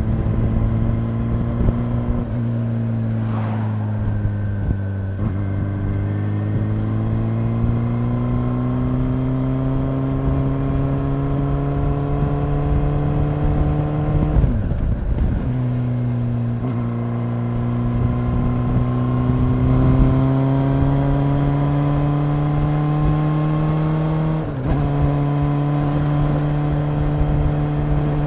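Honda CB400 Super Four's inline-four engine running under way, heard from the rider's seat, with wind noise on the microphone. The engine pitch climbs steadily as the bike accelerates, dropping and picking up again at gear changes about halfway through and near the end.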